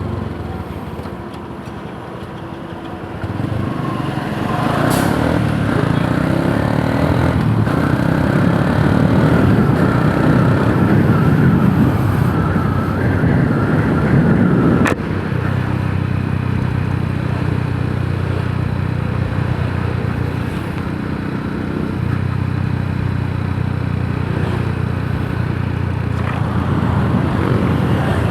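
Yamaha YTX 125 cafe racer's single-cylinder four-stroke engine running on the move. It eases off briefly, builds up again from about three seconds in, and drops suddenly about halfway through before running on steadily.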